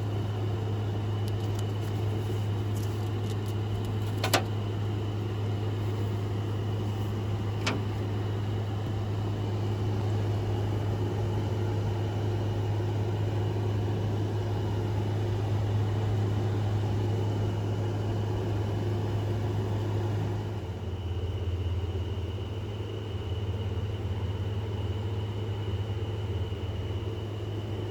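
Household air conditioner running inside a van with a steady low hum. Two sharp clicks come about four and eight seconds in, and the hum's tone shifts about twenty seconds in.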